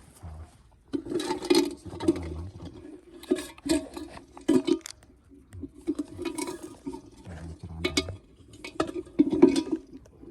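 Irregular clinking and scraping of small hard objects being handled, with sharp clicks among the clatter.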